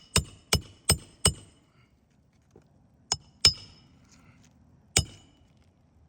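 Sharp metallic clinks with a ringing tone: four evenly spaced taps in the first second and a half, two more about three seconds in, and a last one at five seconds.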